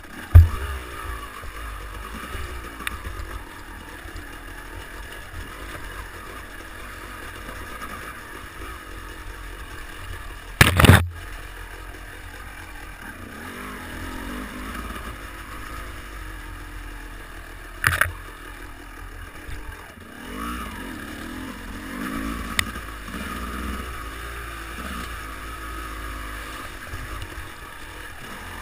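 Yamaha 250 WRZ enduro motorcycle engine running and revving up and down while riding through a muddy, rutted trail, picked up by a bike-mounted action camera. Several sharp knocks come through, the loudest just after the start and about eleven seconds in, with another near eighteen seconds.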